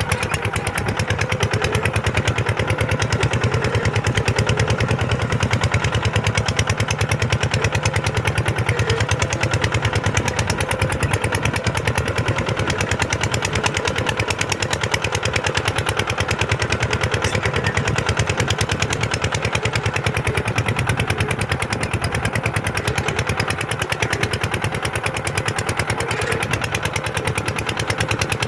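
Kubota tractor's diesel engine running steadily, with a rapid, even firing beat.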